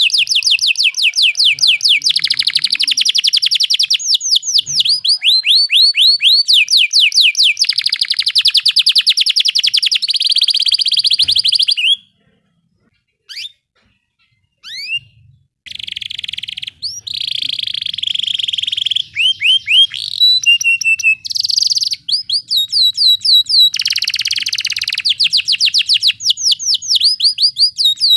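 Domestic canary singing long rolling trills: very fast runs of repeated notes, each run switching to another trill after a second or two. The song breaks off for about three seconds in the middle, with only a couple of short chirps, then resumes.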